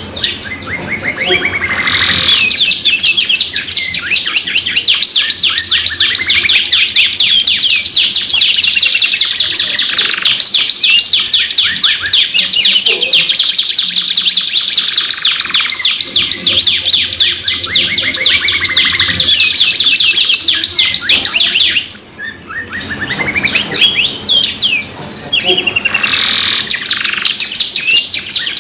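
Two domestic canaries singing long, rapid trills and rolling phrases nonstop, with a brief lull about three-quarters of the way through.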